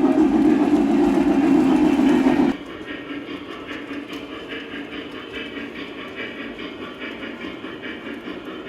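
O-scale three-rail model trains running on the track: steady motor and wheel-on-rail noise with light clicking. About two and a half seconds in the sound changes abruptly from a louder, deeper running noise to a quieter one.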